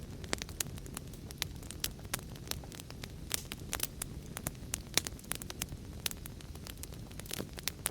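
Wood fire crackling and popping: frequent sharp, irregular pops over a steady low rumble of burning.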